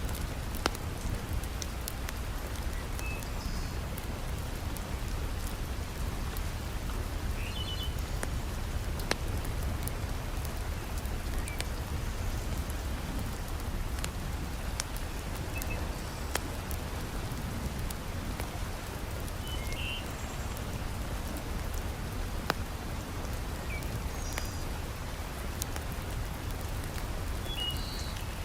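Heavy rain falling in a steady hiss with a deep low rumble underneath. Now and then a fireplace log fire gives a sharp crackling pop. A few faint, short, high chirps come and go.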